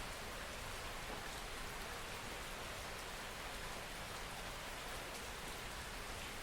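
Steady rain falling, an even hiss with faint scattered drops ticking on a surface.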